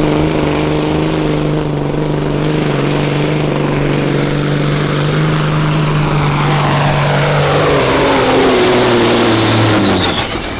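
Semi truck's diesel engine running hard under load on a pull, with a high steady whine above it. From about six seconds in, the pitch falls and the engine winds down near the end.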